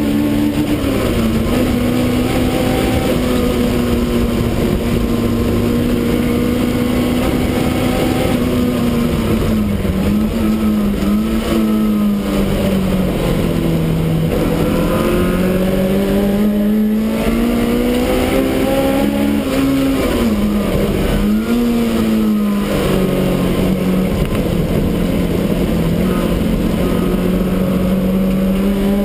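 Supercharged BMW E30 race car's engine heard from inside its stripped cabin under hard track driving, the engine note falling and climbing with gear changes and corners. Twice in the middle it dips and jumps back up quickly.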